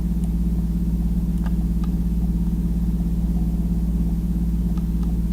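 A steady low hum with several even tones stacked up, like a running motor or machine, with a few faint short clicks over it.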